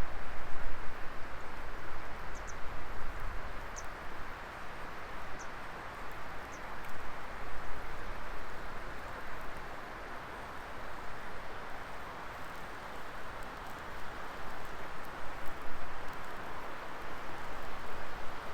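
Wood fire burning in a fire pit: a steady rushing hiss with a few small, sharp crackles and pops scattered through it.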